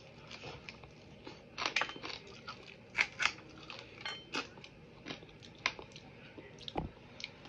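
Close-up crunching and chewing of crispy deep-fried chicken feet, with sharp, irregular crunches about once a second. A single low thump near the end.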